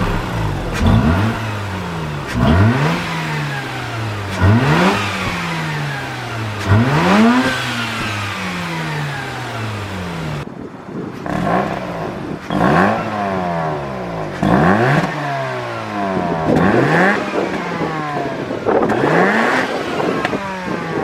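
Mazda RX-8 Type S's Renesis rotary engine on its stock exhaust being blipped from idle, about every two seconds, roughly nine times: each rev rises sharply in pitch and falls back.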